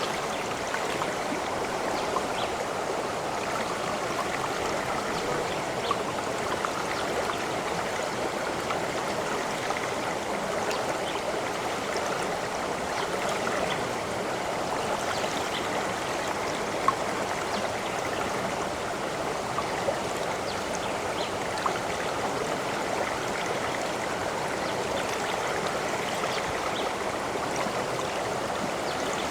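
A stream flowing steadily, water babbling over stones with small scattered splashes and drips.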